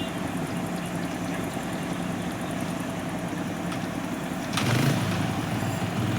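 Motor vehicle engines idling steadily, with a sharp click about four and a half seconds in, after which an engine hum grows louder.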